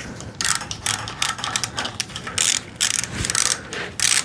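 A hand ratchet clicking in repeated short bursts of quick strokes, turning a fastener on the engine.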